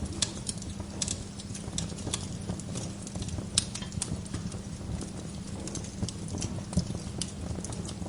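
Wood fire crackling and popping, with irregular sharp snaps over a steady low rumble of the burning; one louder pop a little past the middle.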